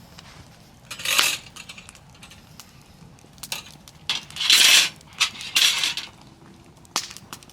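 Metal cookware and utensils clinking and scraping, with scattered sharp clicks and three short rasping bursts.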